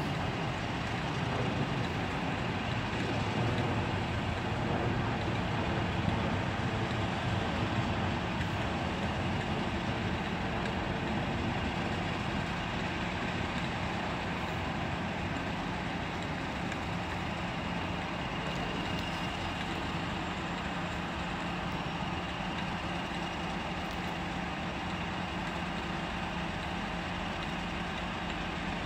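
A train's engine running steadily at the station, a low even drone with a few held tones over it, slightly louder over the first eight seconds.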